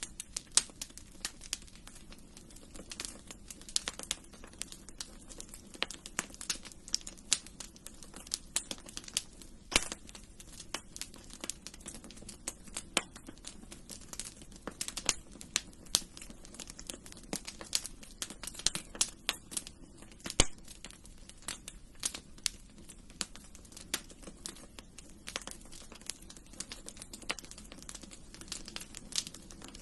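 Wood fire crackling in a fireplace: irregular sharp pops and snaps, several a second and some louder than others, over a steady low background rush.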